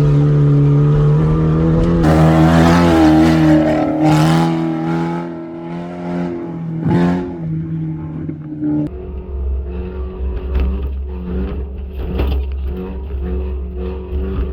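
Rally cars' engines running at high revs as the field launches off the start, with loud swells as cars pass close. About nine seconds in the sound changes abruptly to a lower engine rumble with scattered knocks.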